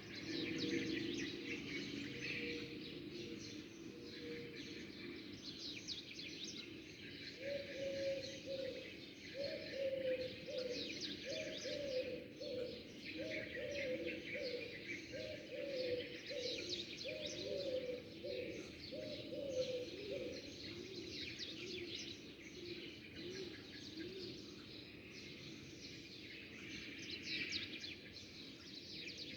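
Many small birds chirping and twittering at once in quick, overlapping high calls. Through the middle a lower cooing call repeats about once a second for a dozen or so short falling notes, like a dove.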